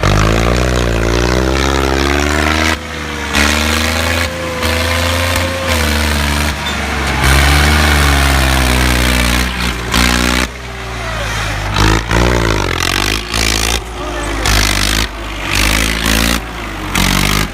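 Tractor engine revving hard, its pitch rising and falling again and again, with several abrupt breaks.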